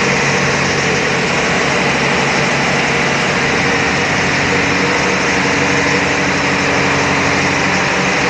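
Loud, steady din of a cargo ship's engine room: diesel engines and machinery running together, a constant low hum under a dense hiss, with a faint extra tone joining about four seconds in.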